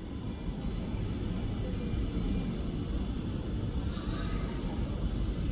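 Steady low rumble of an airliner, with a faint brief higher sound about four seconds in.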